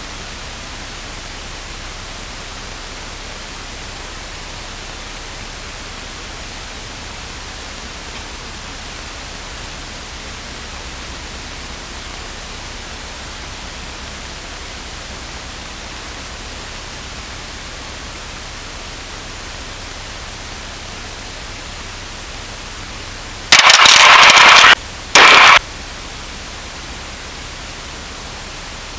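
Steady static hiss of an aircraft radio and intercom feed, broken near the end by two short loud bursts of noise, the first just over a second long and the second brief.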